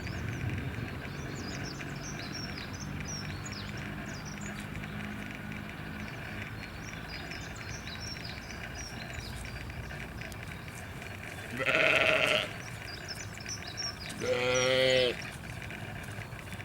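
A sheep or goat bleats twice, two long quavering calls about two seconds apart in the second half. Busy high chirping runs underneath throughout.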